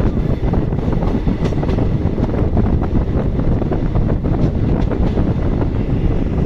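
Passenger train running along the line, heard loud from on board: a dense rattle and clatter of wheels on the rails under the coach.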